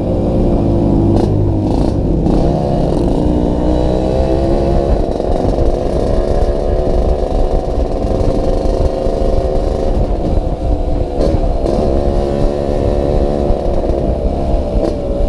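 Yamaha RX-King 135 two-stroke single-cylinder motorcycle being ridden, its engine running under steady throttle with the pitch dipping briefly twice and climbing again. The exhaust is said to rattle badly.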